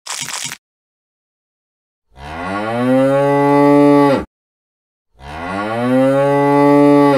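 Cow mooing twice, two long moos of about two seconds each, each rising in pitch at its start and then holding steady, after a few brief scratchy sounds at the very start.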